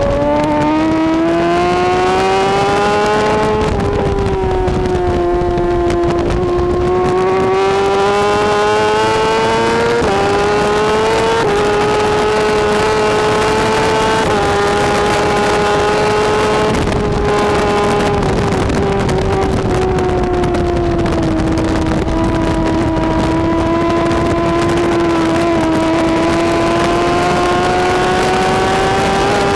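BMW S1000RR superbike's inline-four engine at high revs under hard acceleration, its pitch climbing and then dropping sharply at each of several quick upshifts in the first half. It then holds high revs with a slow sag and rise in pitch.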